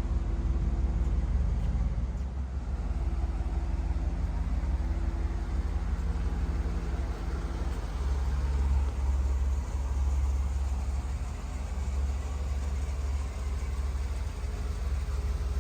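1986 Pontiac Firebird Trans Am's V8 engine running steadily, its low rumble growing deeper and stronger about halfway through.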